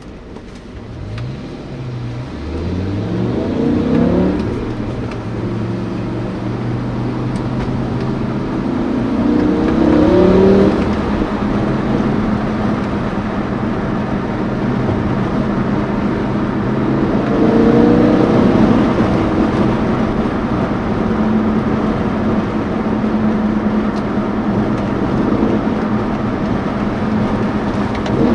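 BMW M5 E60's V10 engine heard from inside the cabin, pulling hard: the revs climb three times, near the start, about nine seconds in and about seventeen seconds in, and settle into a steady hum between the pulls and at the end.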